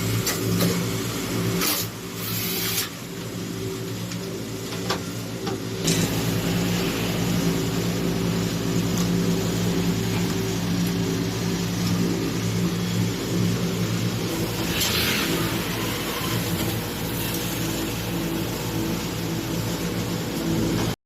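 An electric motor runs steadily with a low pitched hum and a few light clicks, typical of the machinery used in washing-machine cleaning.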